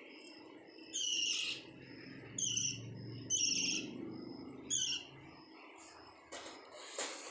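Pet lovebirds chirping: four loud, shrill calls roughly a second apart, with soft short peeps in between.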